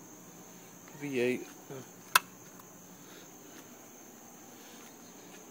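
A steady, high-pitched chirring of crickets runs underneath, with a single sharp click about two seconds in.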